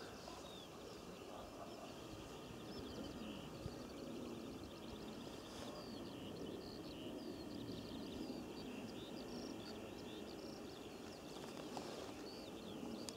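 Small birds twittering and chirping almost without pause, over a low steady rumble of wind and open-field background noise.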